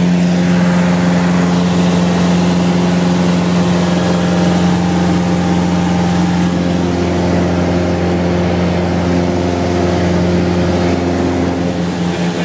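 Cessna 172 floatplane's piston engine and propeller running at a steady speed, an even drone with no change in pitch.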